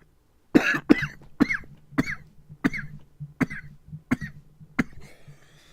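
A man coughing in a run of about eight short, sharp coughs, roughly one every half second or so, getting weaker toward the end.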